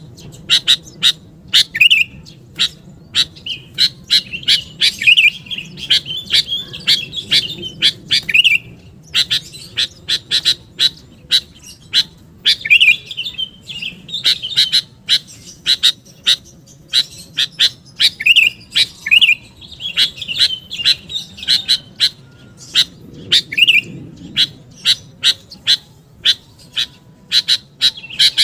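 Sooty-headed bulbul calling without a break: a rapid run of sharp chirps mixed with short warbling phrases, the lively call used as a lure to draw wild bulbuls.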